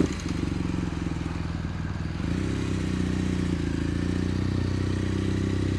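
BMW GS Adventure motorcycle engine starting up and settling to a steady idle. The revs step up slightly about two seconds in and then hold.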